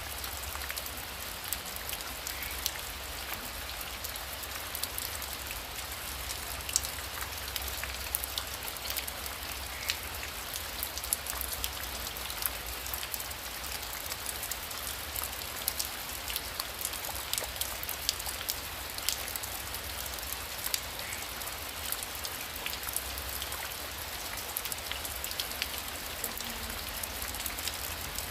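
Heavy rain falling steadily: a dense hiss with many separate drops ticking sharply, over a low steady rumble.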